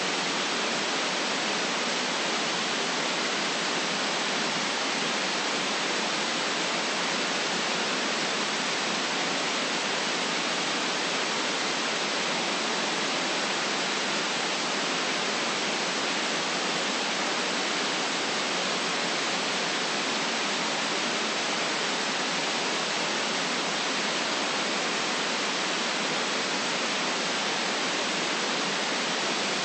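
Steady white noise: an even hiss with no lows, unchanging throughout.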